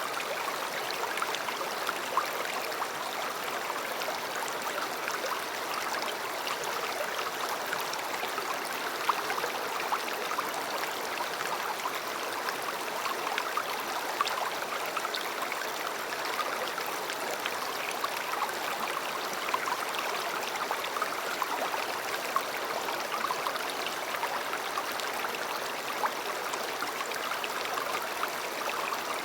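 A river flowing steadily over stones, with continuous babbling and splashing.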